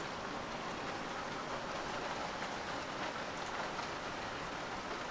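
Rain falling steadily during a thunderstorm, an even hiss with no change in level.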